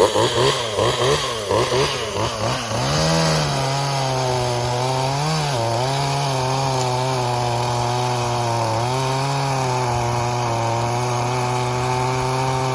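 Stihl MS 192T two-stroke top-handle chainsaw running just after starting: the engine revs unevenly for about three seconds, then settles into a steady high idle with a couple of brief dips.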